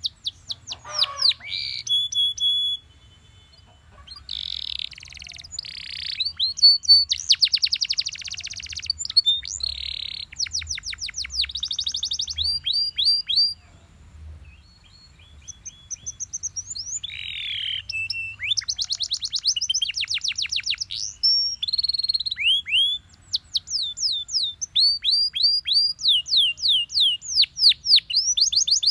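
Canary singing a long, varied song: rapid trills of falling whistled notes alternating with buzzy rolls, broken by short pauses a few seconds in, about midway and about two-thirds through.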